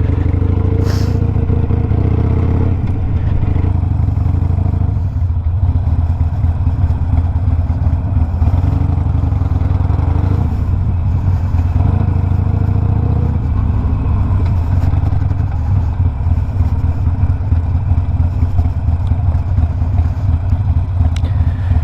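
Harley-Davidson Sportster Iron 1200's air-cooled V-twin running steadily through a Two Brothers 2-into-1 exhaust while the bike is ridden, a continuous low engine note.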